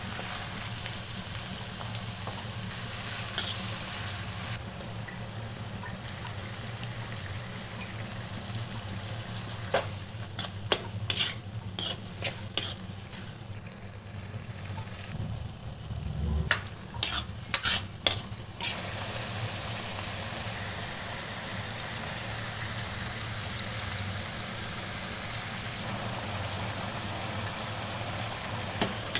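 Sliced onions and green chillies sizzling in hot oil in a pan. A perforated steel spatula scrapes and clinks against the pan in two clusters of sharp knocks around the middle. The sizzle is loudest at the start and again in the last third.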